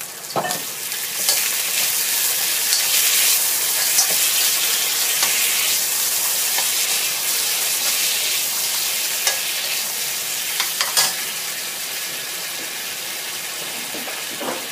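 Pork ribs sizzling in oil and sauce in a hot wok as they are stir-fried, with a metal spatula scraping and a few sharp knocks against the pan. The sizzle is loudest in the first half and eases off later.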